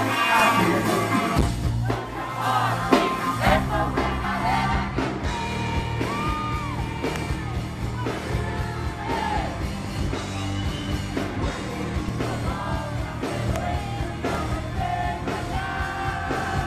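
Live hard rock band playing, with drums, bass and guitars under a male lead singer's gliding vocal line; an audience recording with poor, muddy sound.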